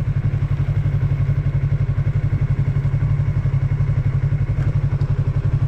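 2020 Yamaha MT-03's parallel-twin engine idling steadily, with an even, rapid pulsing and no revving.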